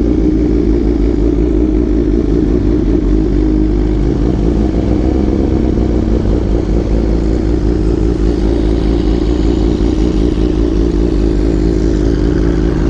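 Motorcycle engine running steadily at low revs, without sharp revving.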